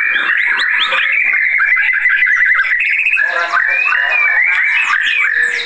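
White-rumped shama singing loudly and without a break: a fast, varied stream of whistles, chatters and sweeping notes. This is the fierce full song of an agitated, fired-up shama.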